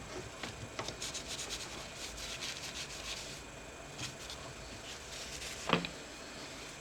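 Small laptop parts being handled and worked by hand: a run of quick scratching, rubbing strokes, then a single click and one sharper, louder click near the end.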